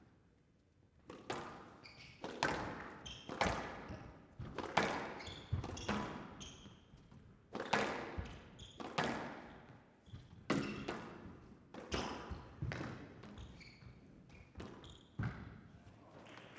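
Squash rally on a glass court: the ball is struck hard by racquets and smacks off the walls in a steady run of sharp, echoing hits, roughly one a second, with short high squeaks in between.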